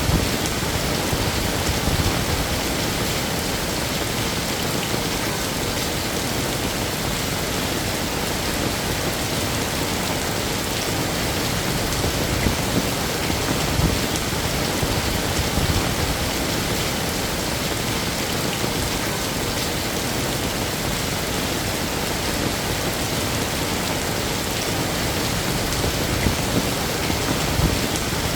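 Heavy rain falling steadily, a dense even hiss of drops on hard surfaces with small irregular spatters.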